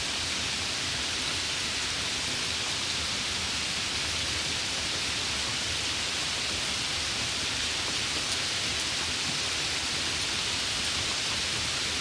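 Steady rain, an even hiss of falling drops with no changes.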